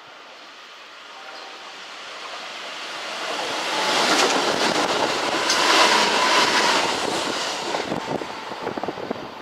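Kintetsu electric train passing: it comes in steadily louder, is loudest a little past the middle with a brief whine, then fades, with a few sharp clicks from the wheels near the end.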